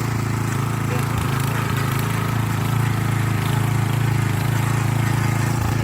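Small single-cylinder four-stroke 170 petrol engine on a walk-behind tiller, running steadily at an even pace.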